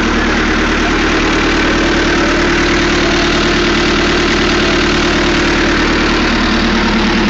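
Tractor diesel engine running steadily, loud and close, with a fast even pulse and no change in speed.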